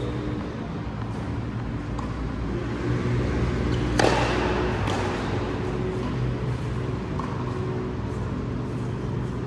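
One sharp knock, the loudest sound, about four seconds in, with a few fainter clicks around it, over a steady low mechanical hum.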